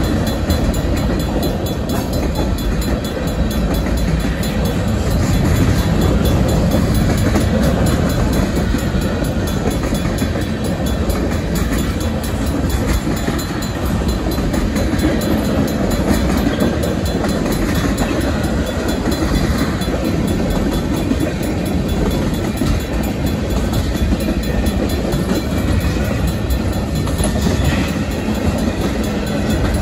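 Freight cars of a Union Pacific manifest train rolling steadily past at a grade crossing: a continuous rumble of steel wheels on the rails, with wheel clatter over the joints. The crossing's Safetran mechanical bell rings faintly behind it.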